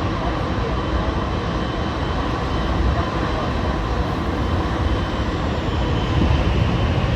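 Steady, loud jet aircraft noise on an airport ramp, with a faint high whine over a low rumble.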